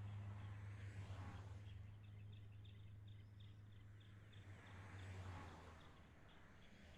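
Faint, steady low hum of a distant train fading away about six seconds in, with a bird chirping in a quick run of short high notes.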